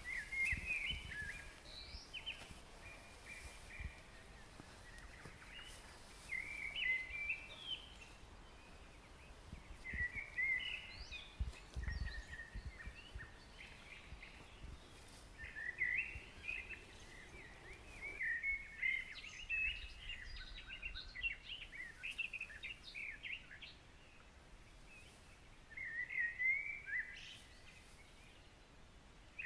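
Songbirds singing in short chirping phrases that come and go every few seconds, over the quiet background of an open meadow.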